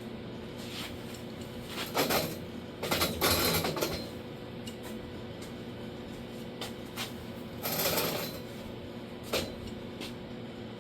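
Workshop handling noises over a steady hum: a short scrape or rustle about two seconds in, a longer one a second later, another near eight seconds, and a few light knocks.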